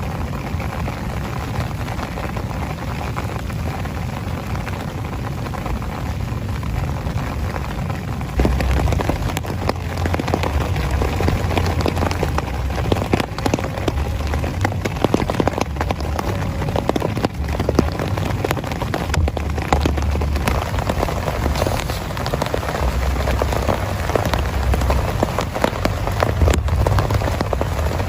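Heavy rain falling on a tent, a dense steady patter of drops with individual drop ticks. It gets louder about eight seconds in, with a low uneven rumble underneath.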